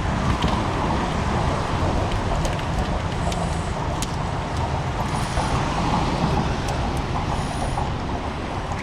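Steady low rumble and hiss of road traffic, with a few brief high squeals and faint clicks.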